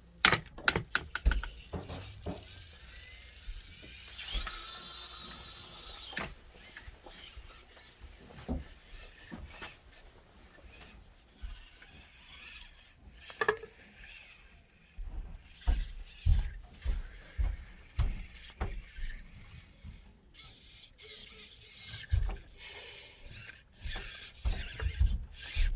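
Axial SCX24 micro crawler working through a course: the small electric motor and gears whine as it changes speed, while the tires and chassis scrape, rub and knock against the obstacles in many short clicks and thumps.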